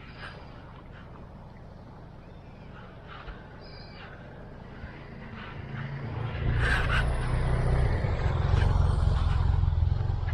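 A motor vehicle's engine, heard as a low hum that swells to loud about halfway in and stays up, as a vehicle comes close by.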